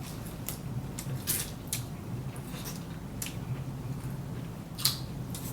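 Mukbang eating sounds: an irregular run of short wet clicks and smacks from chewing and utensils, one louder near the end, over a steady low hum.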